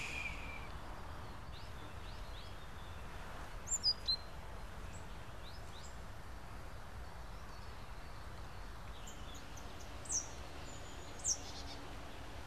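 Wild birds calling in short, scattered high chirps over a steady low outdoor background rumble. The clearest calls are quick falling chirps: a pair about four seconds in and two more near the end.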